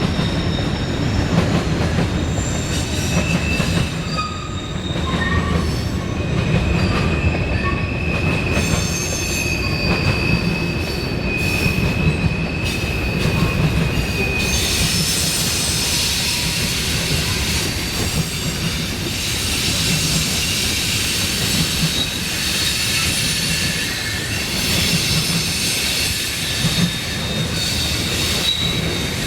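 Freight train cars rolling past with a steady low rumble of wheels on rail and high-pitched wheel squeal. One squeal is held for several seconds in the first half, then a denser screeching follows in the second half.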